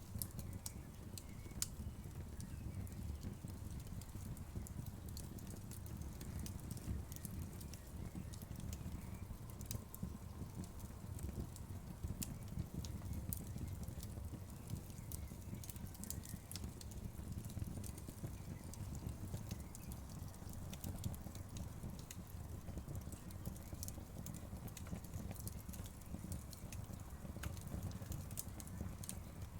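Wood fire burning, with a steady low rumble of the flames and frequent sharp crackles and pops from the burning wood, scattered irregularly.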